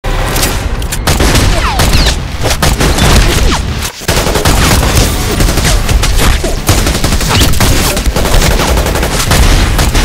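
Dense, continuous volleys of rapid automatic rifle gunfire, many shots overlapping, with a brief lull about four seconds in; these are added gunshot sound effects laid over a film firefight.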